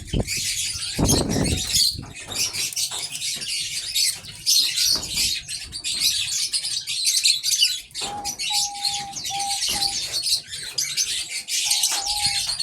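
Aviary birds: a constant busy twittering of many small birds, with wings flapping near the start. About two-thirds through and again near the end come a few soft, steady, even-pitched coos, typical of diamond doves.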